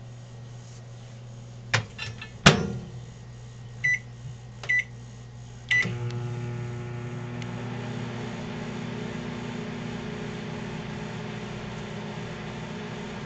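Microwave oven being started: a knock and a louder thump as the door is shut, three short keypad beeps, then the oven running with a steady hum.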